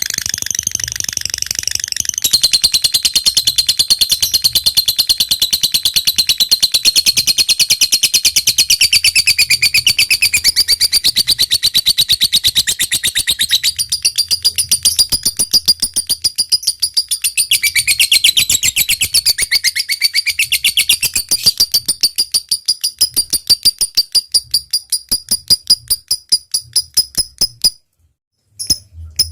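Lovebird giving a long, rapid, high-pitched chattering trill, the 'ngekek panjang' call. The trill slows into separate notes over the last few seconds, then breaks off briefly near the end.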